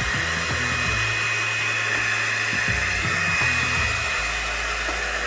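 Revlon One-Step hot air brush dryer running steadily on its low setting: an even rush of blown air with a thin, steady high whine.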